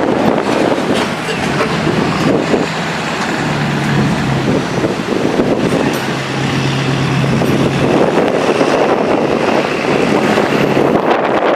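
Truck engines running and passing by, with wind buffeting the microphone; a steady engine drone holds for a few seconds in the middle.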